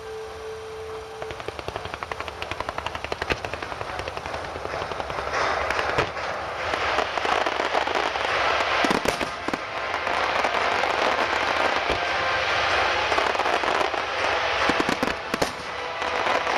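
Aerial fireworks crackling: rapid popping that builds into a dense, continuous crackle, with a few louder bursts about nine seconds in and again near the end.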